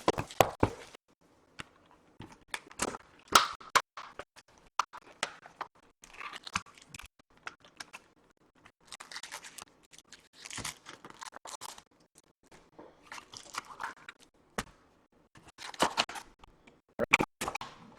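Trading-card packs being torn open by hand: irregular bursts of foil wrapper crinkling and tearing, with sharp clicks and taps as the cards are handled.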